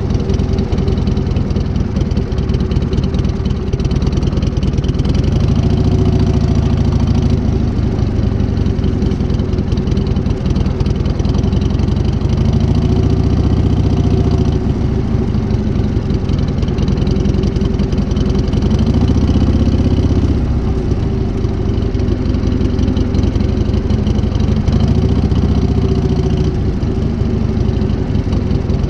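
1978 Harley-Davidson Shovelhead V-twin engine, fitted with a new S&S carburettor, running at idle and revving up gently and settling back about four times.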